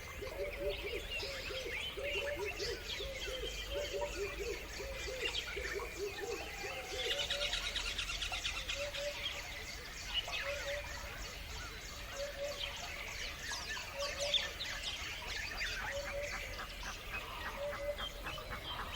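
Many birds chirping and trilling at once, with a lower call repeating in quick runs over the first few seconds and then now and again.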